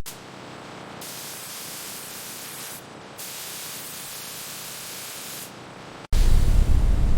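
A steady hiss, its brightness changing abruptly a few times as if cut together. About six seconds in, it gives way suddenly to a loud, deep rumble.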